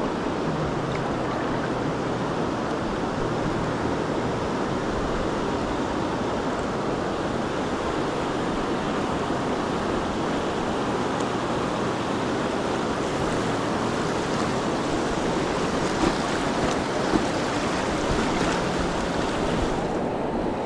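Steady rush of fast-flowing river water over rapids, with two short knocks late on.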